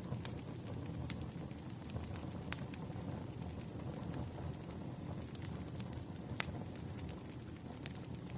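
Firewood burning in a fire, crackling: irregular sharp pops and snaps over a steady low rushing of the flames.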